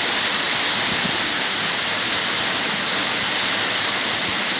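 Waterfall: a steady, loud rush of falling water, an even hiss with no breaks.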